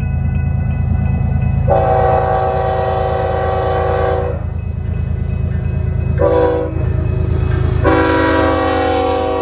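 BNSF freight locomotive's multi-chime air horn sounding a crossing signal over the steady low rumble of the diesel engines: a long blast, a short one, then another long blast that runs on past the end.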